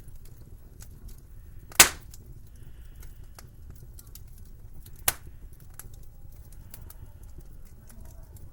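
Wood fire crackling with scattered small ticks over a low steady rumble, and two sharp loud pops, about two seconds in and again about five seconds in.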